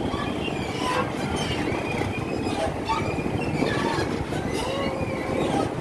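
A vehicle in motion, a steady low rumble with thin high squeals wavering up and down over it.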